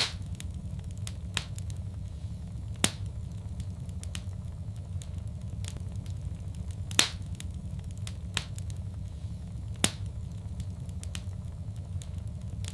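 Fireplace fire crackling: sharp pops every second or two, three of them louder, over a steady low rumble of flame.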